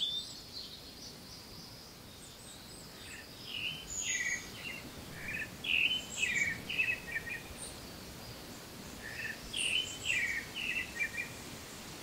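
A songbird singing the same phrase of several quick notes twice, a few seconds apart, with other short high chirps over a faint background of garden ambience.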